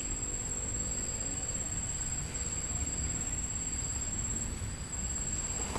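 Steady high-pitched insect trill, with a fainter second tone and a low rumble of wind or handling beneath it.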